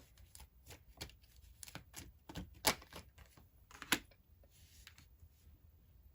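Deck of tarot cards being shuffled and handled: an irregular run of sharp card snaps and taps for about four seconds, loudest once near the middle and once about four seconds in, then a brief soft sliding rustle.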